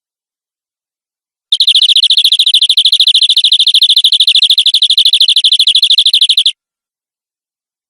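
Domestic canary singing one rapid trill of about a dozen notes a second, lasting some five seconds and cutting off suddenly.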